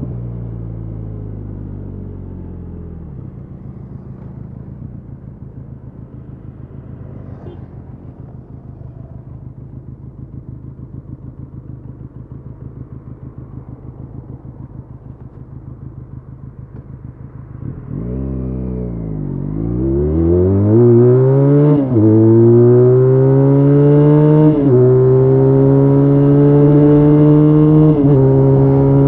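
Benelli Leoncino 500's parallel-twin engine dropping to a lumpy idle. It idles for about fifteen seconds, then revs hard in a full-throttle launch from standstill. Its pitch climbs and falls back at each upshift, about every two to three seconds.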